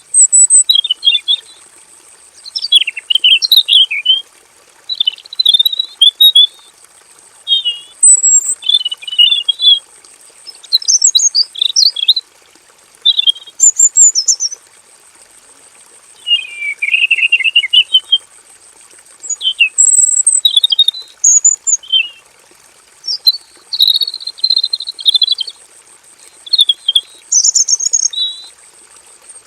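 Male red-billed leiothrix singing: a string of fast warbled phrases, each a second or two long, with short pauses between them.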